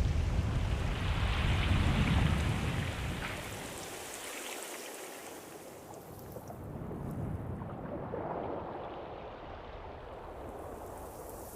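Ocean surf: a wave swells loud and washes through in the first few seconds, the sound sinks, then a second, softer wave comes in about seven seconds in and eases off.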